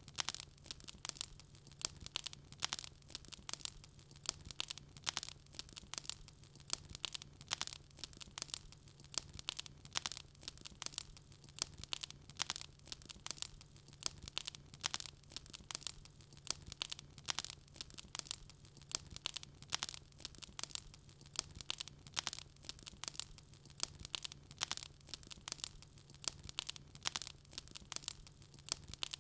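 Wood fire crackling in a fireplace: a dense, irregular run of sharp pops and snaps over a faint steady low hum.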